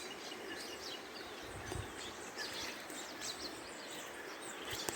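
Many small birds chirping and twittering over a steady background hiss, with a soft low thump about halfway through.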